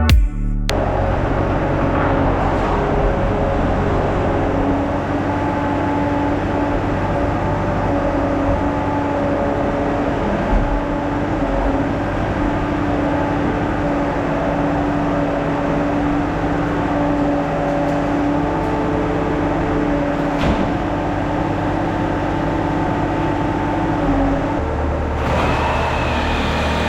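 Skid steer engine running steadily under work, a continuous mechanical hum whose pitch shifts slightly about 25 seconds in.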